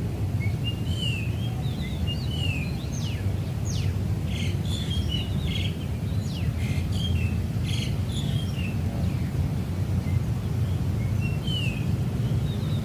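Several small birds chirping and twittering in short calls that sweep up and down in pitch, busiest in the middle, over a steady low rumble.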